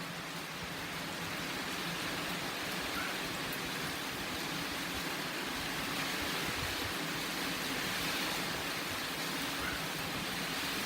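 Steady heavy rain from an approaching typhoon, a dense even hiss, played back at double speed.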